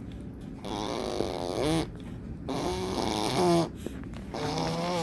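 Fart noises blown with the mouth pressed against a bare arm: three buzzing blasts, each about a second long, with a short pause between them and a bend in pitch as each one ends.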